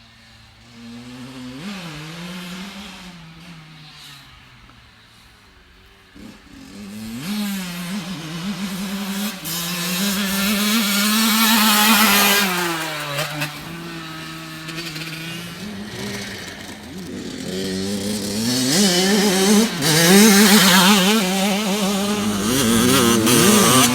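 Dirt bike engine revving up and down as the rider works the throttle and gears, faint at first, then growing loud as it comes close about halfway through, easing off, and loud again near the end.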